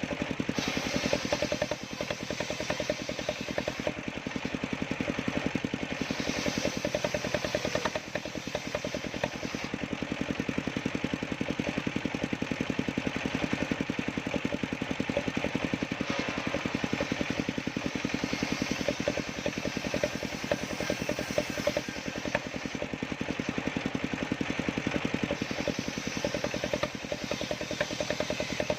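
Engine-driven homemade sawmill running steadily while sawing waru wood, with a fast, even engine beat under a hiss that grows and fades every few seconds.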